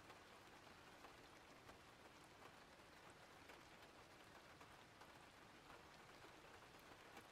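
Faint steady rain: an even hiss with scattered light ticks of drops.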